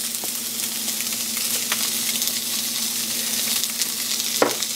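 Misteak plant-based steaks searing in a hot frying pan: a steady sizzle with faint scattered crackles, over a low steady hum.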